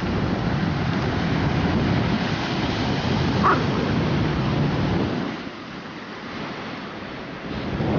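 Wind buffeting the microphone over ocean surf, with one brief high squeak about three and a half seconds in.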